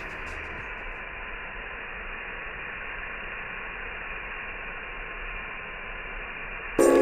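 A steady, muffled hiss with no distinct crackles or pops. Near the end, music with a tambourine comes in loudly.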